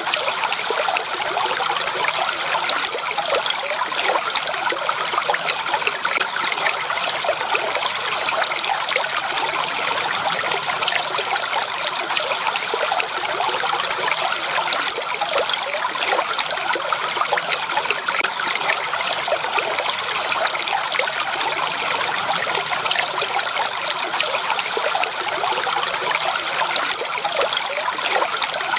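Water trickling and babbling steadily over rocks in a small stream, an even splashing with no pauses.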